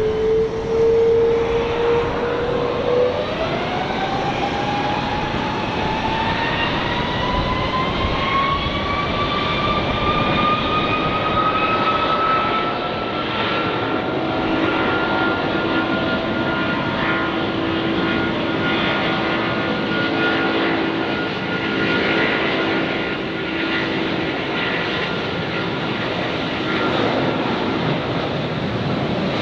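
Airbus A330 KC2 Voyager tanker's Rolls-Royce Trent 700 turbofans at takeoff power on departure: steady jet engine noise with a whine that rises in pitch over roughly the first fourteen seconds, then holds steady.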